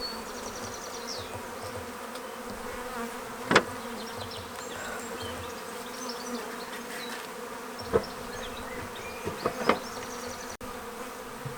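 Honeybee swarm buzzing steadily around a bait hive, with a few sharp knocks at about three and a half seconds, eight seconds, and twice more near the end.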